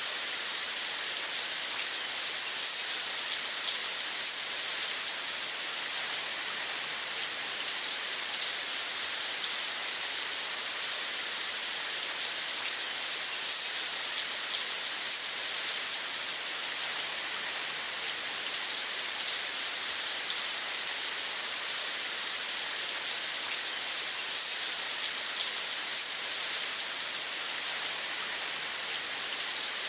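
Steady rain falling, a continuous even hiss with fine drop patter that does not change.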